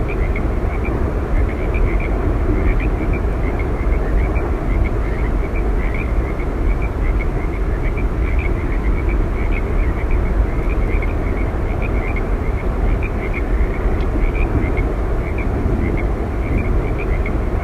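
Steady roar of Yosemite Falls, a deep continuous rush of falling water, with a scatter of short high chirps over it.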